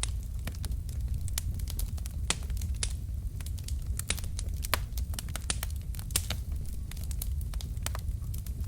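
Wood fire of burning logs crackling: frequent irregular sharp pops and snaps over a steady low rumble of the flames.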